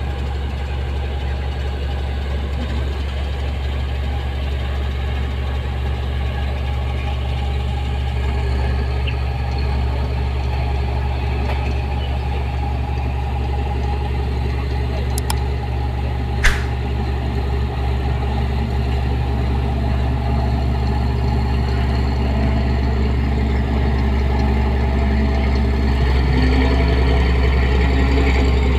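Rice combine harvester's diesel engine running steadily at a low idle-like hum, with one sharp click about sixteen seconds in. It grows slightly louder near the end.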